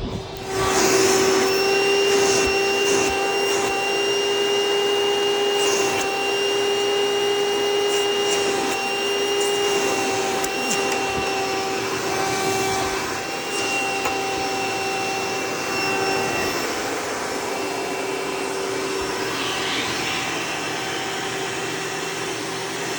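Hoover Preferred upright vacuum running with its stretch hose in use for hose cleaning: a steady motor whine with a strong hum tone. It surges louder about half a second in and eases slightly in the later part.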